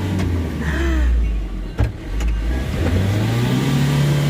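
Isuzu Traga pickup's diesel engine labouring under load on a slippery muddy climb. The revs sag to a low drone around the middle, a sharp knock comes just under two seconds in, and then the revs climb back as the truck fights for traction.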